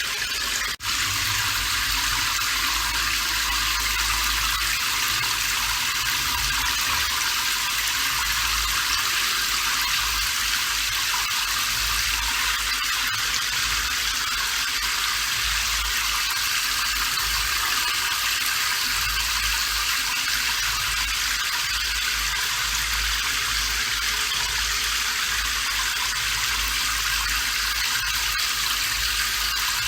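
Steady rain falling, an even hiss with a faint low rumble underneath; it cuts out for an instant about a second in.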